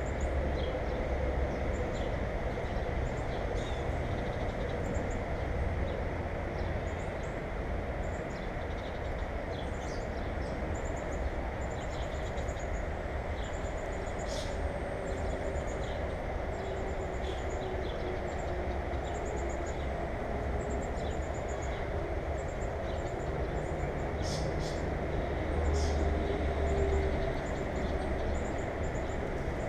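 Small birds at a feeder giving many short, high chirps, over a steady low rumble that swells briefly near the end.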